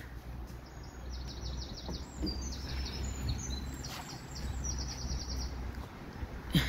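Small songbird singing: two fast trills of evenly repeated high notes, with scattered chirps between them, over a steady low rumble.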